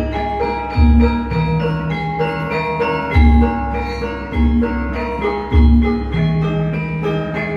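Javanese gamelan ensemble playing a gending: ringing bronze metallophone notes over deep low strokes that recur about every second.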